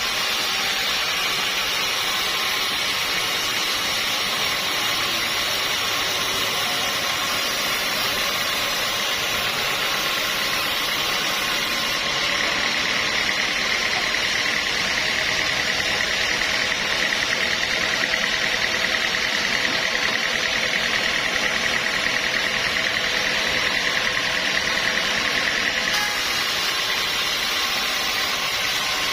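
Sawmill machinery running steadily. A high, steady whine joins about twelve seconds in and stops about fourteen seconds later.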